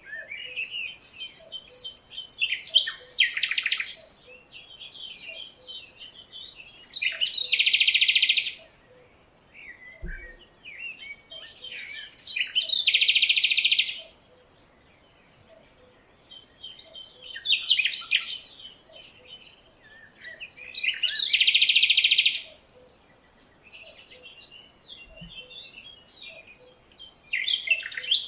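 Birds chirping and singing: scattered chirps, with a loud rapid trill lasting a second or so that repeats every four to five seconds.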